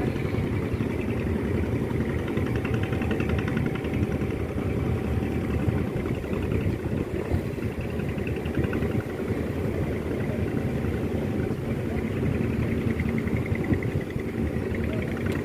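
Large ship's diesel engine running steadily, a deep, even rumble with a faint steady hum over it.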